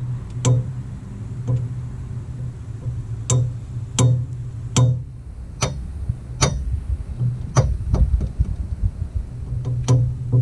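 Worn outer CV joint on a 2002 Ford Focus Mk1's front driveshaft clicking in a regular rhythm, one sharp click about every two-thirds of a second, over a low rumble; the clicking is the sign of a bad CV joint.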